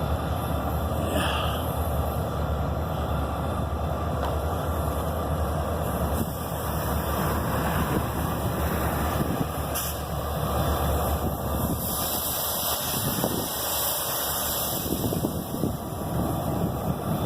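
A heavy engine runs steadily with a low drone under a rushing noise, with a brighter hiss added for a few seconds past the middle.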